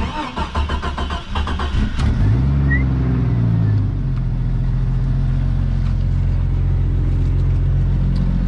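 Jeep Cherokee engine cold-started after sitting overnight: the starter cranks for about two seconds, the engine catches and revs up, then settles to a steady idle about four seconds in.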